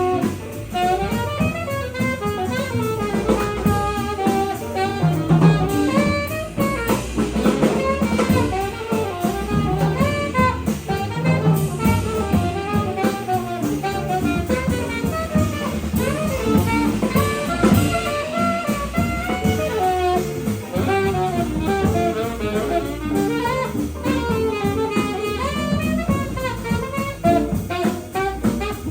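Jazz quintet playing: alto saxophone running fast melodic lines over piano, bass and drum kit.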